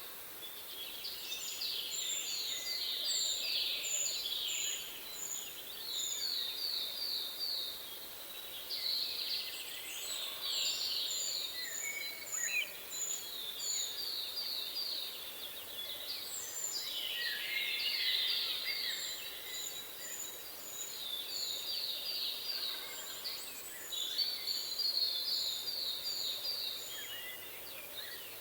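Songbirds singing over a steady background hiss. Short phrases of quickly repeated notes and strings of thin, high peeps recur every couple of seconds throughout.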